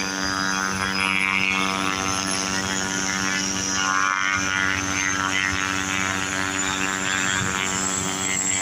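Aircraft towing machinery running steadily: a constant low engine drone with a steady high-pitched turbine-like whine over it.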